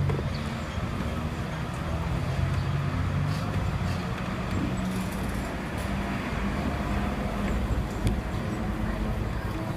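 Hong Kong double-decker tram running along the street, a steady low motor hum and rumble with road traffic around it and a few light clicks.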